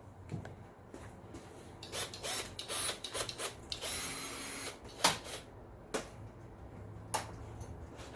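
Objects being handled and rummaged through: rustling and scraping, with several sharp knocks about a second apart in the second half.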